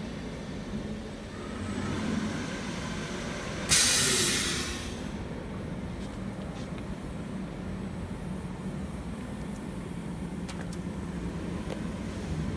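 Sheet-metal CNC V-groover running with a steady low hum; about four seconds in, a sudden loud hiss lasting about a second, fading out.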